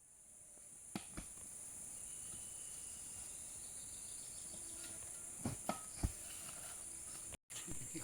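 Steady high-pitched chorus of insects, crickets or cicadas, with a few scattered knocks about a second in and again near the end.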